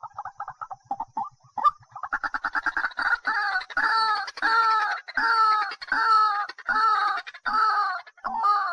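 A bird calling: quick clucking notes that build, about two seconds in, into a run of loud, harsh repeated calls, roughly one every 0.7 seconds.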